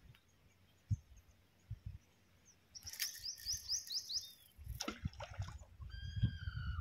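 Birds calling: a quick run of about six high chirps about three seconds in, then a drawn-out call falling slightly in pitch near the end. Faint low thumps and rumble sit underneath.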